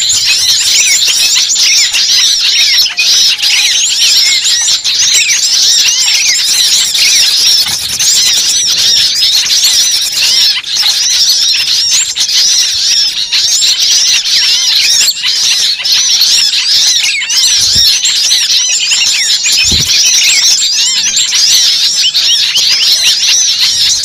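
Dense, loud chorus of many small birds chirping and squeaking rapidly and without pause, a layered mixed-species bird-lure recording of noisy, agitated calls meant to draw birds in.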